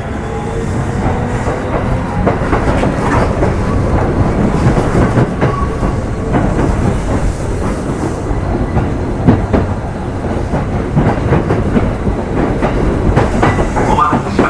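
Running noise inside a Kintetsu 2800 series electric motor car (Mo 2853) under way: a steady rumble with scattered rail-joint clacks, and a rough motor-and-gear growl like that of a nose-suspended traction motor, an abnormal noise for this car.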